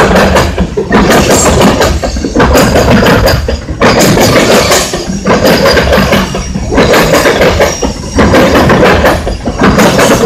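Freight train of two-bay covered hoppers rolling past, with loud wheel-on-rail noise that swells and dips about every second and a half as each car goes by.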